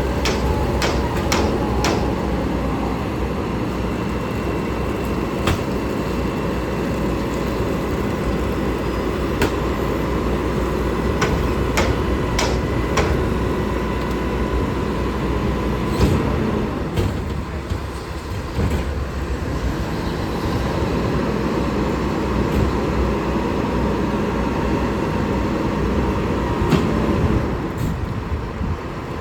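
Garbage truck running with a steady engine rumble, with scattered sharp metallic clanks and knocks over it, a cluster of them at the start and more every few seconds after.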